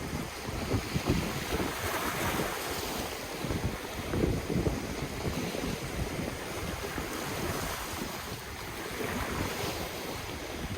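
Ocean waves washing in continuously, swelling a little about two seconds in and again near the end, with wind buffeting the microphone in low gusts.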